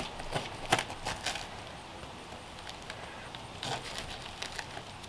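A knife cutting into a toasted pie iron pizza on a plate, giving a few sharp, crisp crunches in the first second and a half, then a quieter stretch with a couple more near the end.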